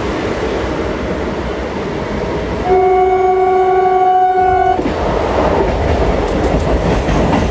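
Electric MEMU passenger train running, heard from an open window. About three seconds in, a train horn sounds one steady blast lasting about two seconds.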